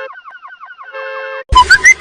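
Electronic vehicle alarm sound effect: a run of quick falling chirps, about seven a second, then a steady chord tone for about half a second, in a cycle that repeats. About one and a half seconds in it cuts abruptly to a much louder sound with quick gliding whistle-like tones.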